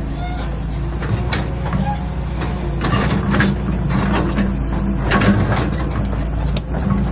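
Excavator engine running steadily, with repeated sharp metallic clanks and knocks over it.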